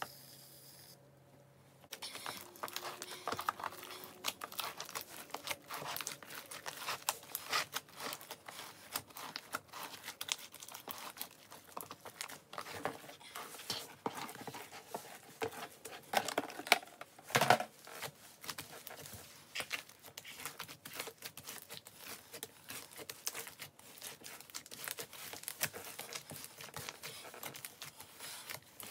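Hands squeezing and kneading a large mass of slime mixed with shaving foam, making a dense, irregular sticky crackling and popping. There is one louder squelch about two-thirds of the way through.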